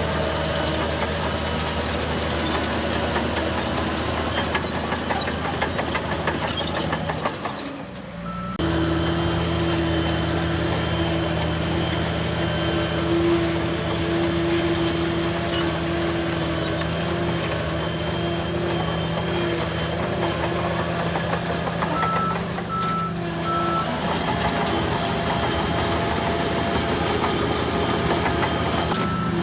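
Heavy diesel engine of a bulldozer running steadily under work. The sound drops away briefly about eight seconds in, then resumes. Near the end a reversing alarm gives three short beeps.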